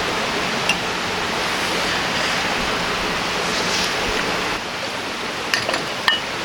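River water rushing steadily, with a few small sharp clicks near the end.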